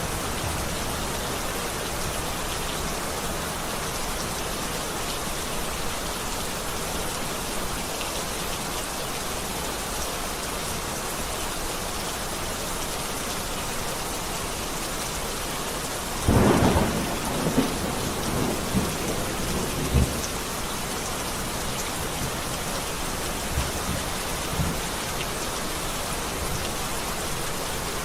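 Heavy rain falling steadily, with a thunderclap about halfway through: a sudden loud crack followed by a few seconds of rolling rumbles, then lighter rumbles a few seconds later.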